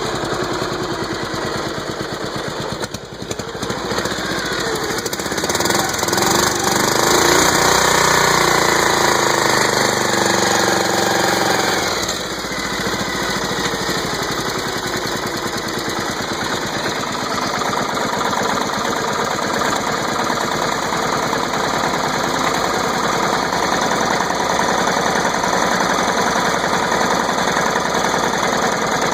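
Riding lawn mower's small engine running after being flooded, still clearing the water it took in. It runs louder for several seconds, drops back about twelve seconds in, and then runs steadily.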